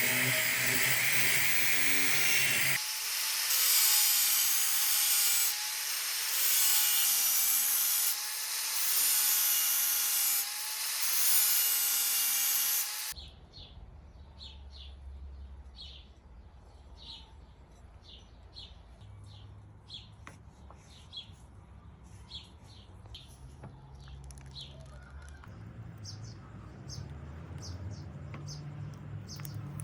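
A power tool runs loudly for about thirteen seconds, swelling and easing every couple of seconds as if working through material, then stops suddenly. Afterwards short repeated high chirps continue over a faint low hum.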